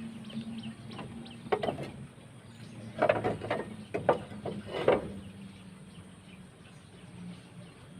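Roof tiles knocking and clattering as they are lifted off a roof, in several short clatters between about one and a half and five seconds in. Small birds chirp quickly during the first two seconds, over a low hum that fades out.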